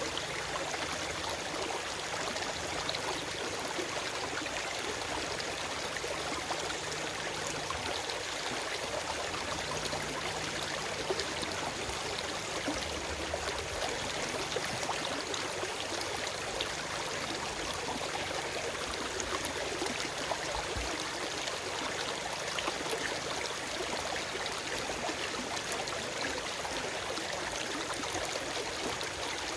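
Forest stream running over rocks: a steady, even rush and gurgle of flowing water, with no birds.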